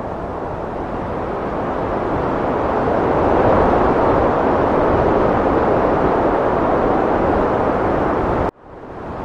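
Heavy wind blowing in a steady rush that swells louder a few seconds in. Near the end it cuts off abruptly and fades back up.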